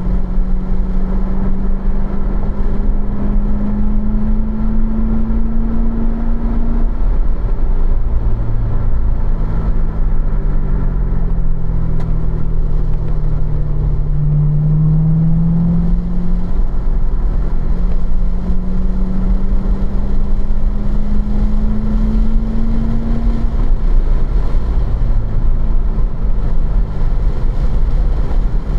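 2015 Corvette Z06's supercharged 6.2-litre LT4 V8, heard from inside the cabin, pulling in third gear at moderate revs. Its pitch rises, falls as the car slows for a corner about a third of the way in, then climbs steadily again as it accelerates out, dipping near the end.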